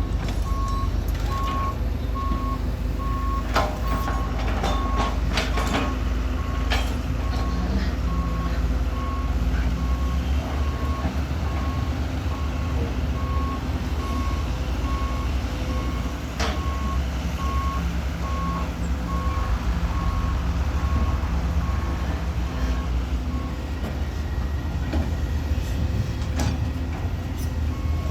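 Truck reversing: the engine runs with a steady low rumble while the reversing alarm beeps evenly on one high tone, with a short break in the beeping near the end. A few light clicks and knocks come in the first several seconds.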